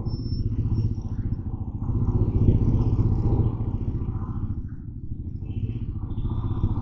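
Motorcycle engine running while riding, getting louder for a second or two midway as it pulls, with a few short high tones near the start and end.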